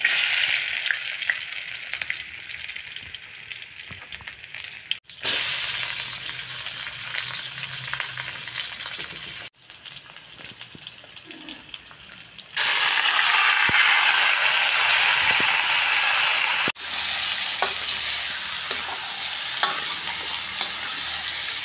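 Garlic and onion, then raw chicken pieces, sizzling in hot rendered pork fat in a wok while a wooden spatula stirs them. The sizzle cuts off and restarts several times and is loudest in the last third, where the chicken is being stirred.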